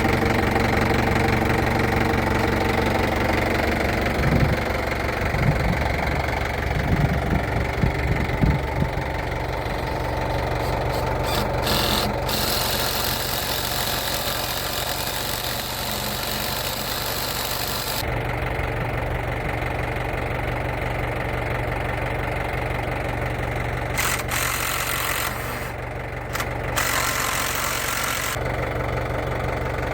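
Tractor engine running steadily, with a few short knocks and clanks about four to nine seconds in.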